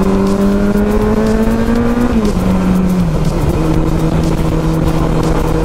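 Yamaha FJR1300 inline-four engine running at freeway speed, over rushing wind and road noise. Its pitch creeps up for about two seconds, then drops in two steps and holds steady at the lower pitch.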